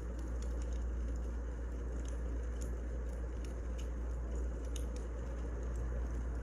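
Wood fire crackling: irregular small sharp pops over a steady low rumble.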